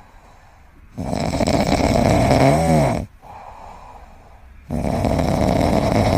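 A pet snoring loudly, with two long snores about four seconds apart. The first snore ends in a short wavering whistle.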